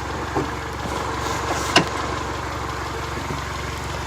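A 2000 Honda Accord LX's engine idling steadily, with a single sharp click a little under two seconds in.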